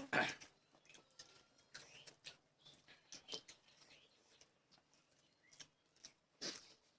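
Eating sounds: scattered soft smacks and clicks of chewing and handling food, at irregular intervals, the loudest just after the start.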